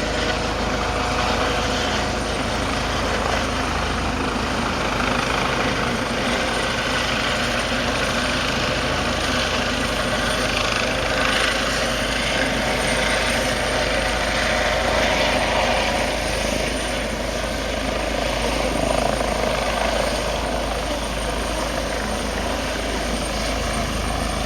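RAF Juno HT.1 (Airbus H135) helicopter's main rotor and twin turboshaft engines running close by as it comes in to land: a dense, steady rotor and engine noise with a constant high turbine whine over it.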